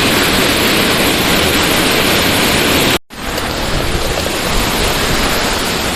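Waterfall rushing: a loud, steady roar of falling water. It cuts out for an instant about halfway through, then carries on.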